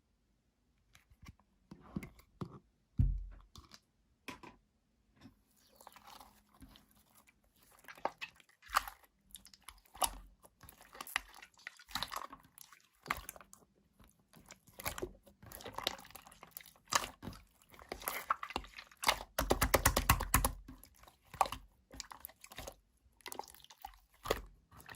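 Slime being pressed and squished by hand, giving crunchy crackles and sticky clicks, with a dense run of rapid crackling a little after three quarters of the way through.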